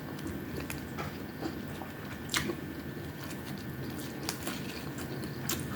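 Close-up mouth sounds of a person biting and chewing a meal of fried tamban fish and rice, with scattered short crisp clicks; the sharpest comes about two and a half seconds in.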